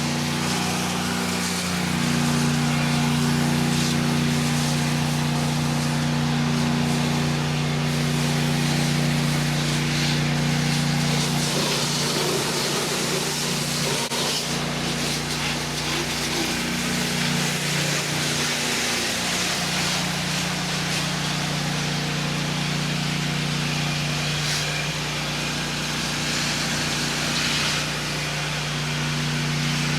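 Honda-engined 8 gpm pressure washer running at a steady speed, with the hiss of the water spray growing louder and softer over it.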